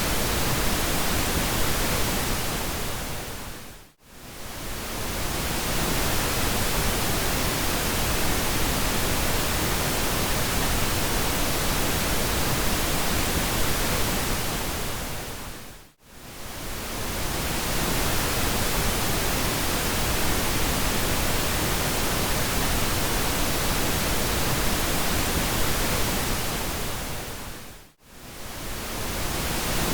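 Steady pink noise, a soft even hiss across the whole range, that fades briefly to near silence and swells back three times, about every twelve seconds.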